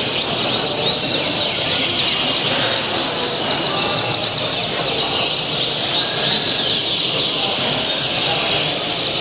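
Many caged songbirds singing at once: a dense, unbroken chorus of overlapping chirps and trills.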